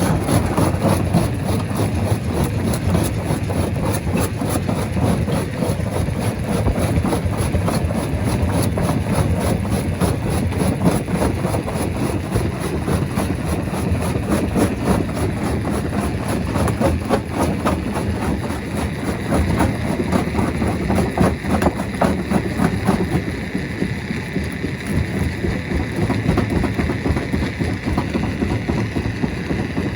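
Large rock crusher machine running, a steady heavy drone with a dense clatter of stone being broken. About two-thirds of the way through the clatter thins and a steady whine comes through.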